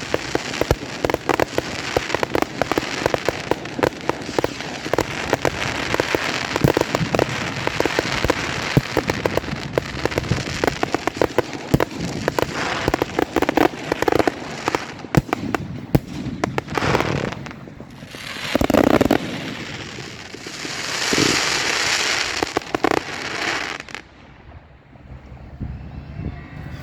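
Fireworks going off in a dense, rapid barrage of crackles and bangs. The barrage thins into a few separate bursts and hissing spells, then dies away near the end.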